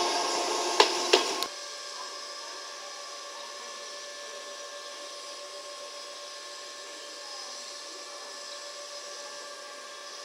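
KuMoYa 145 electric cars rolling over track points, with a steady wheel whine and sharp clicks from the wheels on the rail joints; this cuts off suddenly about a second and a half in. Then the standing cars give a faint, steady hum with a few constant high tones.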